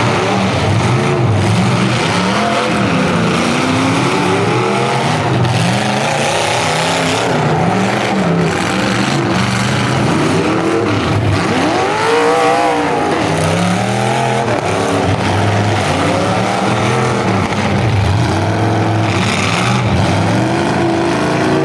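Several full-size demolition derby car engines revving up and down at once, their pitches rising and falling over each other without a break.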